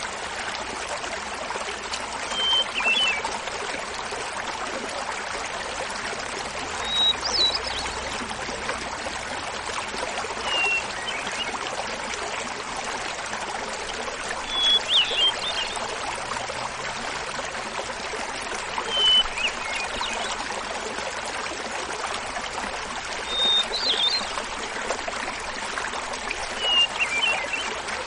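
Small mountain waterfall babbling steadily while a hermit thrush sings seven flute-like phrases, one about every four seconds, each a held opening note followed by a quick flutter, alternating higher and lower in pitch.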